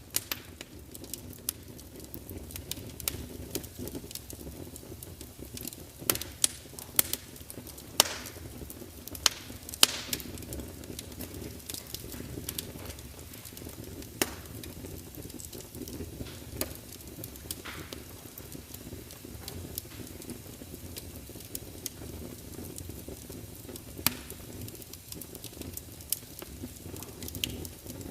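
Wood fire burning in a large fireplace: a steady low rumble of flames with frequent sharp crackles and pops from the logs, a run of louder snaps a few seconds into the stretch.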